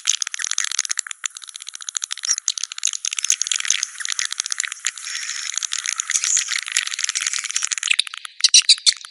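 Swiftlet calls, a recorded lure track for a swiftlet house: a dense, very rapid chittering rattle with nothing in the low range, and a few louder separate chirps near the end.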